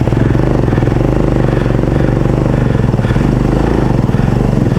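Adventure motorcycle engine running steadily at a low, even engine speed, its rapid firing pulses heard as a continuous throb.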